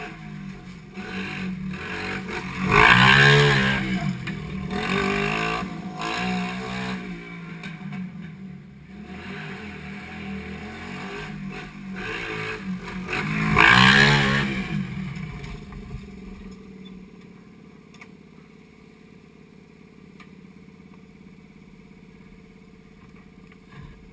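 A 50cc pit bike engine revving hard and easing off, its pitch rising and falling, loudest twice, about three seconds in and about fourteen seconds in. For the last third it runs quieter and steadier.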